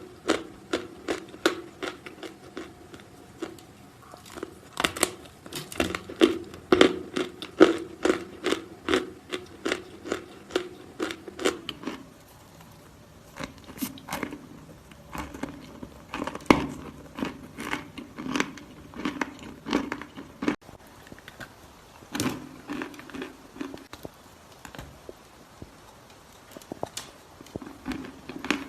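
Close-up crunching of a round piece of edible chalk being bitten and chewed: rapid sharp crunches, dense for about the first twelve seconds, then sparser and more spaced out.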